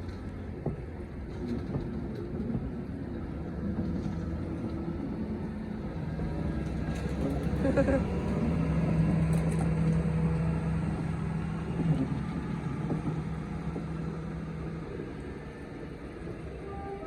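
Diesel locomotive engine working hard, its deep steady note growing louder to a peak about halfway through and then fading away.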